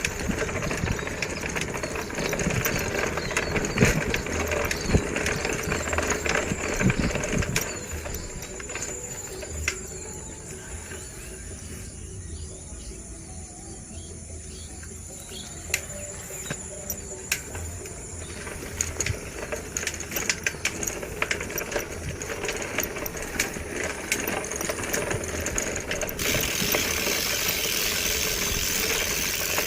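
Riding noise from a bicycle on the move: steady rushing and rumble with many small clicks and rattles from the bike, easing off for a few seconds in the middle and swelling into a loud hiss near the end.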